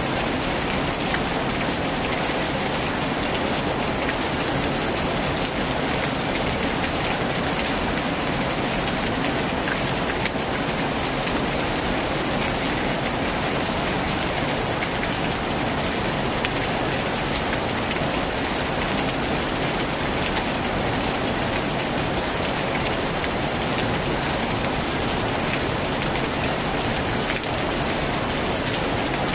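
Heavy rain on a tin roof, a steady, even hiss with no let-up.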